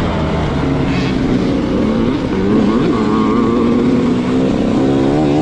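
Motocross bike engine running under throttle, its pitch rising and falling as the rider opens and closes the throttle.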